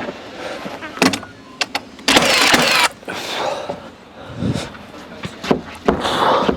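Timber wall-framing work: several sharp knocks and clacks about a second in, then a loud hissing burst of under a second, and another shorter noisy rush near the end.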